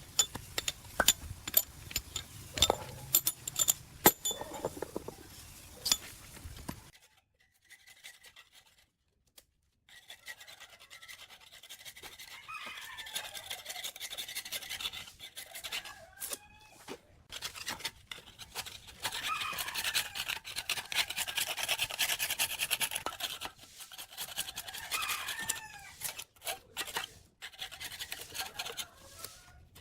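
Metal parts clinking and knocking for the first several seconds. After a short pause, a stiff brush scrubs a part in long back-and-forth stretches, with squeaks, as parts are cleaned during a machine restoration.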